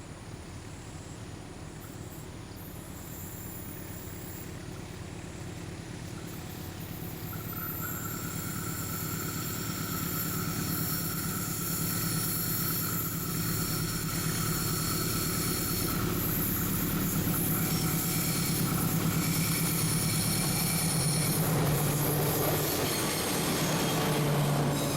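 CC 206 diesel locomotive running as it hauls a train of fuel tank wagons, growing steadily louder as it approaches. From about a third of the way in, high, steady wheel squeal rises over the low engine sound.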